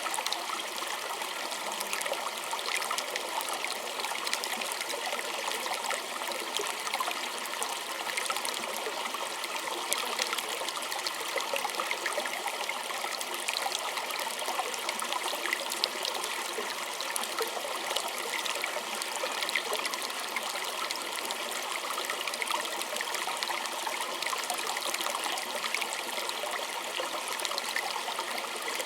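Small stream trickling and splashing over stones, a steady, even rush of water full of fine little splashes.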